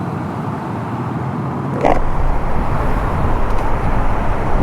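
Riding noise from a 2014 Honda CB500X motorcycle under way: steady wind rush and engine rumble. There is a short click about two seconds in, after which the low rumble gets louder.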